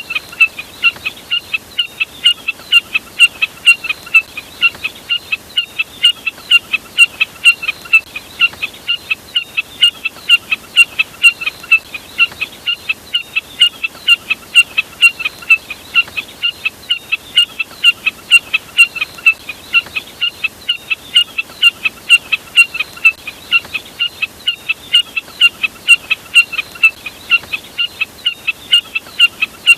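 Jack snipe (burcet) call played as a lure: a steady run of short, sharp notes, about three a second, repeating without pause.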